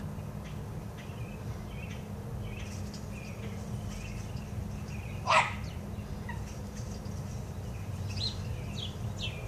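Faint, scattered bird chirps over a steady low hum, with one louder, short call a little over five seconds in.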